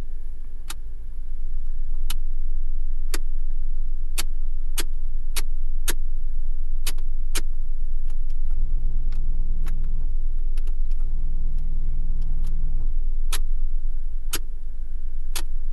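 Suzuki Carry DA63T kei truck with its engine running as a steady low rumble. Irregular sharp clicks come about once a second over it, and two steady hums of about two seconds each sound around the middle.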